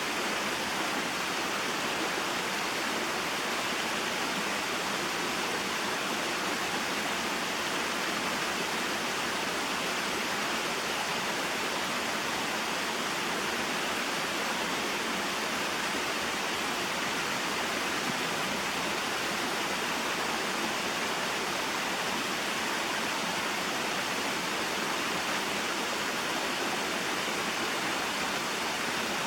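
Small waterfall and mountain stream, water flowing and splashing in a steady, unbroken rush.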